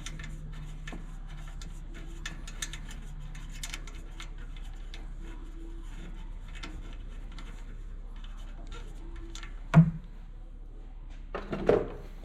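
Hydraulic rivnut tool being unthreaded from a rivnut set in a motorcycle exhaust head pipe: scattered light metallic ticks and clicks of hand work, with one sharp knock about ten seconds in and a short clatter near the end.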